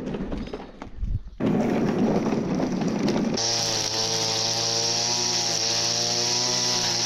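A machine running: a noisy sound for the first three seconds, then a steady engine hum with a high hiss sets in about three and a half seconds in.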